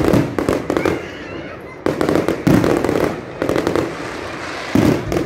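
Close-range fireworks going off in rapid volleys of sharp bangs and crackling, with short lulls between the volleys.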